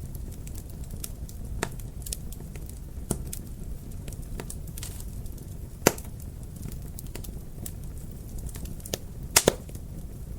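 Wood fire in a fireplace crackling, with scattered sharp pops over a steady low rumble; the loudest pop comes about six seconds in, and a close pair of pops comes near the end.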